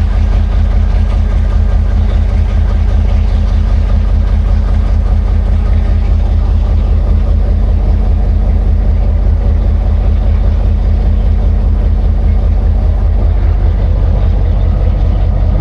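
A vehicle engine idling steadily, with a low hum that neither rises nor falls.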